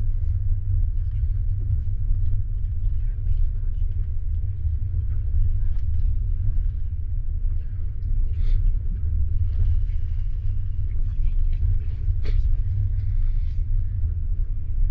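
Steady low rumble of a double-decker passenger coach rolling slowly, heard from inside at the window, with faint scattered rattles and one sharp click about twelve seconds in.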